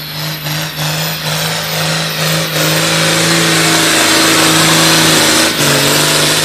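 Modified John Deere 4250 farm tractor's diesel engine running hard under load as it pulls the weight sled. It falters briefly a few times in the first two seconds, builds louder and holds, then dips about five and a half seconds in.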